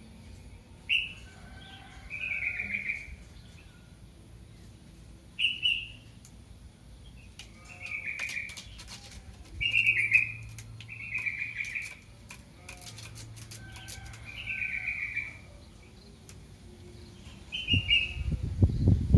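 Young kitten mewing for its mother: about eight high, thin calls, each falling in pitch, spaced a second or two apart. A loud low rumble starts near the end.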